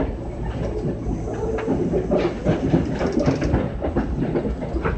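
Running sound inside a Kintetsu 6413-series electric commuter train car: a steady rolling rumble with irregular clatter and knocks from the wheels on the track.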